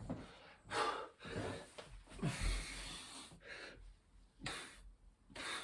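A man breathing hard, in a series of short, noisy breaths, from the exertion of repeated burpees.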